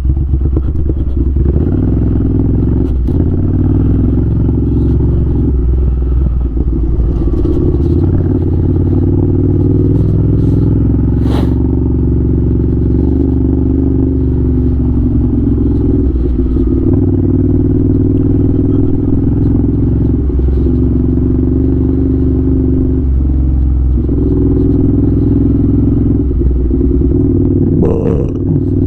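Ducati Scrambler 800's air-cooled V-twin engine, fitted with an unbaffled Arrow titanium exhaust, running steadily under way, with a few short dips in the engine note. Occasional sharp clicks and knocks sound over it.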